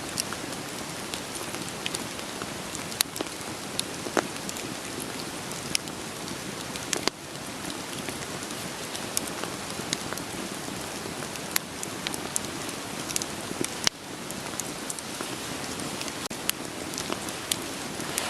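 Steady rain falling, with sharp pops and crackles from burning firewood scattered through it. The rain's hiss drops abruptly twice, about a third and two thirds of the way in.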